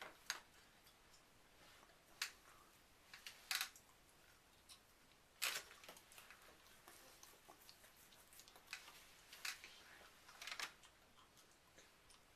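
Mostly quiet room with scattered small, sharp clicks and taps of eating at a table, irregularly spaced, the loudest about five and a half seconds in.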